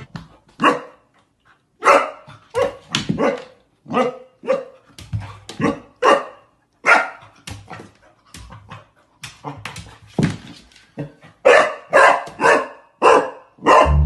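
A dog barking over and over, short sharp barks coming in quick irregular runs.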